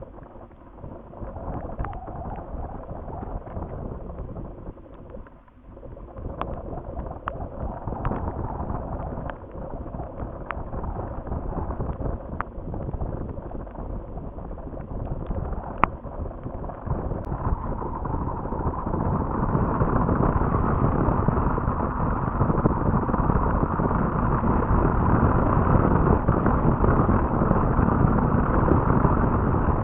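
Wind rumbling on the outdoor nest webcam's microphone, gusty and growing stronger about two-thirds of the way through. A scatter of faint clicks sounds in the first half.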